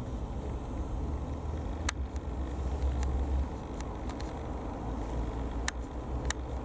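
Low, steady drone of a light aircraft's single piston engine, with a few sharp clicks.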